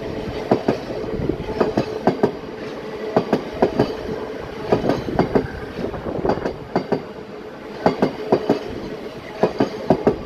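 Electric passenger train running along the tracks, its wheels clacking over rail joints in repeated clusters of two or three clicks, over a steady rumble and faint hum.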